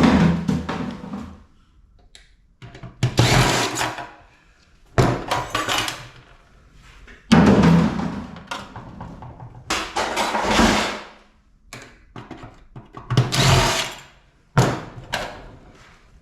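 Scrap metal from a stripped air-conditioning unit clanking and rattling as it is handled: about seven separate metallic crashes, each dying away within a second.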